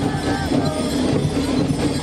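Many voices talking at once over music, a dense, steady crowd din.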